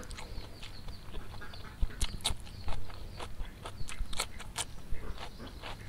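Close-miked eating sounds: wet chewing and irregular mouth clicks and smacks as fried rice-vermicelli noodles are eaten by hand, with sharper crisp bites as a fresh cucumber slice is bitten in the last couple of seconds.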